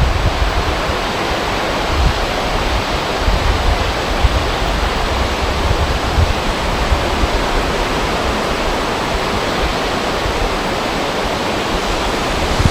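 Wind blowing over a river: a steady rushing noise, with low rumbling buffets of wind on the microphone.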